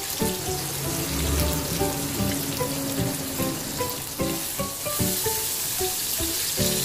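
Saba mackerel fillets sizzling steadily as they fry in a little oil over medium heat. Background music with short melodic notes plays over the sizzle.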